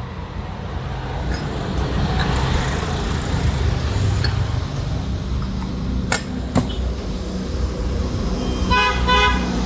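Vehicle engines running with a steady low rumble that builds about halfway through, two sharp clicks in the middle, and a horn beeping a few short times near the end.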